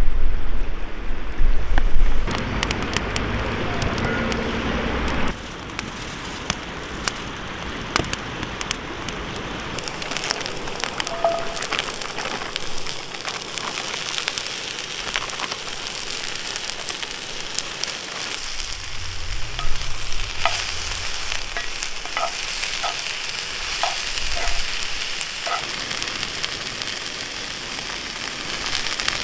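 Wind rumbling on the microphone at first, then a wood campfire crackling and food sizzling in a cast-iron skillet as cabbage and blood sausage fry over the flames, with scattered small pops.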